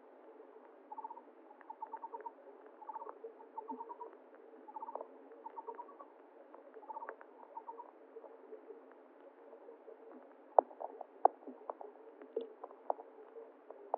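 An animal call of short rapid pulses in groups of about four, repeated roughly every half second for the first several seconds, over a faint steady hiss. In the later part come a scatter of sharp clicks and knocks, the loudest about ten and a half seconds in.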